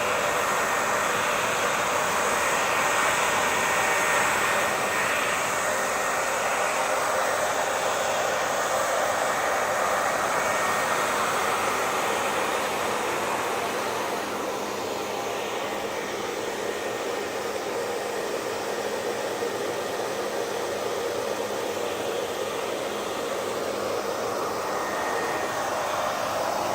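Hair dryer running steadily: a continuous blowing hiss with a faint whine, easing slightly softer about halfway through.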